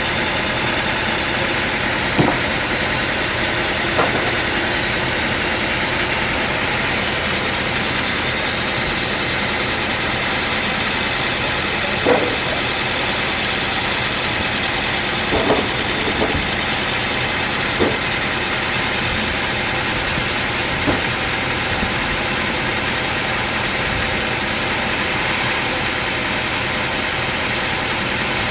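Sawmill machinery running steadily with a dense, even noise, broken by a handful of short, sharp knocks at irregular intervals.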